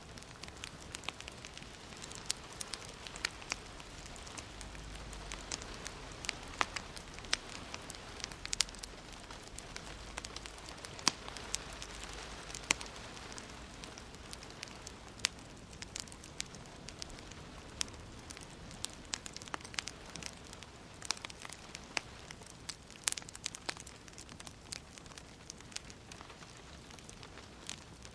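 Wood fire crackling, with irregular sharp pops and snaps over a steady soft hiss of gentle rain.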